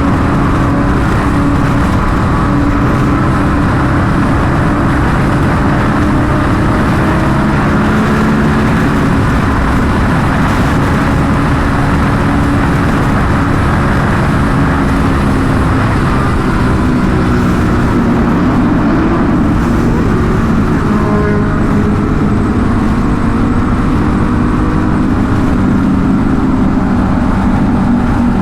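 A superbike's engine running steadily under way, its pitch drifting slowly up and down with small throttle changes, mixed with road and wind noise.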